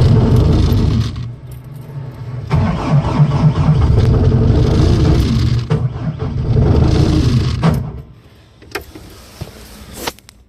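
Starter motor cranking the Bobcat S250's cold Kubota diesel in two attempts. The first is short; the second lasts about five seconds and then stops suddenly without the engine running on, which fits a hard cold start. A few sharp clicks follow.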